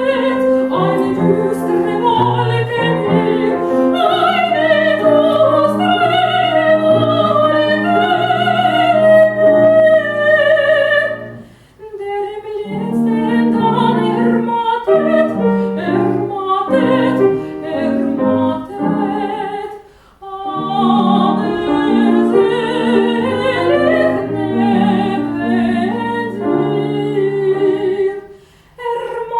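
A female classical singer performing an art song with vibrato, accompanied by piano. The voice is strongest for the first ten seconds or so. After that the music runs in phrases, with short breaks about twelve, twenty and twenty-eight seconds in.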